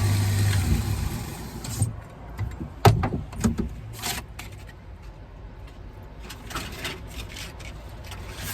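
Water-cooled sharpening grinder's motor humming steadily, cutting off abruptly under a second in. Then scattered knocks and clatter, the loudest about three seconds in.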